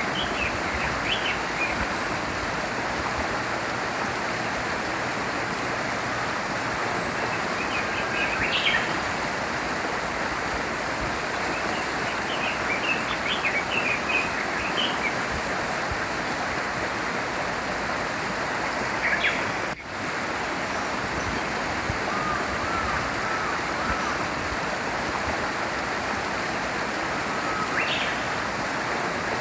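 Steady rush of a flowing stream, with small birds chirping in short, scattered bursts over it. The water sound drops out for an instant about two-thirds of the way through.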